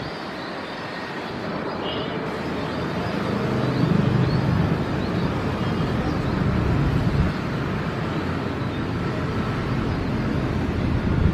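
Airliner engines rumbling as a plane passes, the noise swelling over the first four seconds and then holding steady.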